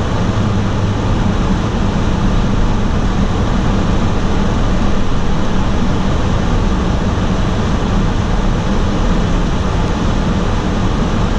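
Steady road noise inside the cab of a 2018 Toyota Tundra CrewMax pickup driving on a snowy road in four-wheel drive: tyre rumble and wind with a low, even drone from the drivetrain.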